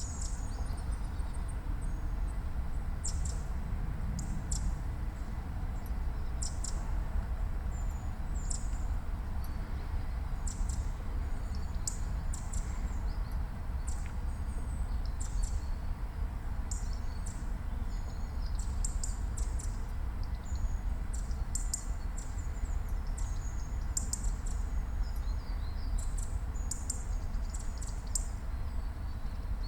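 Eurasian wren and European robin giving short, high-pitched calls and chirps, scattered irregularly throughout, over a steady low background rumble.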